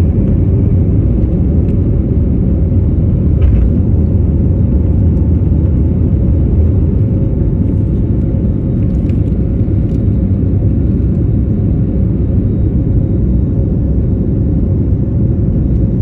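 Loud, steady low rumble of a jet airliner's engines, with a few faint ticks.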